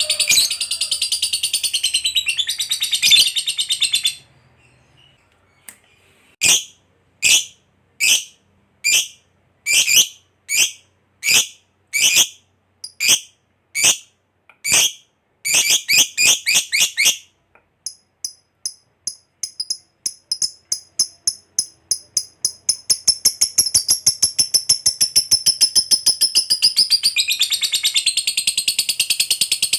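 Lovebird calling: dense shrill chatter, a short pause, then sharp single chirps about a second apart that speed up. These run into a long, rapid rattling trill, the 'ngekek panjang' prized in fighter lovebirds, which breaks back into dense chatter near the end.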